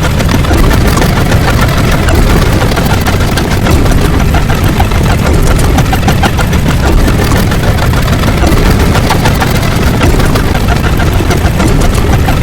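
Loud, steady rumbling noise.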